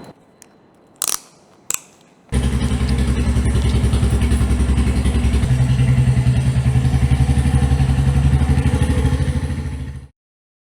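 Two short clicks, then a motorcycle engine starts about two seconds in and runs with a fast, even pulse, its pitch stepping up a little about halfway through; it cuts off suddenly near the end.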